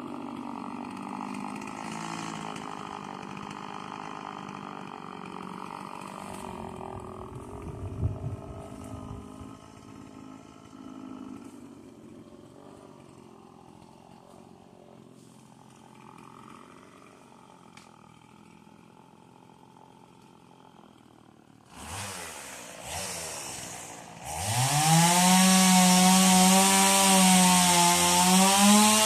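Stihl chainsaw engine firing in two brief sputters, then catching about two seconds later. It revs up and runs at high throttle, loud and steady, to the end. Before that, a quieter engine hum fades away over the first ten seconds or so.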